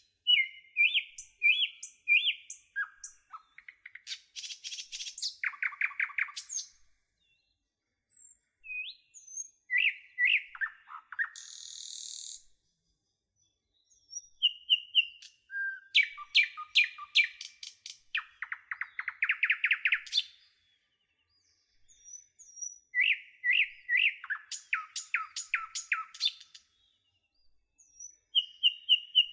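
Birds singing: bursts of whistled notes and rapid trills, a few seconds each, separated by pauses of a second or two.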